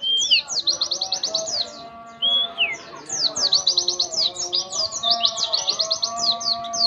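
White-eye (pleci) singing a dense, rapid-fire song: fast runs of high, downward-slurred chirps, broken by a lower slurred note at the start and another about two seconds in.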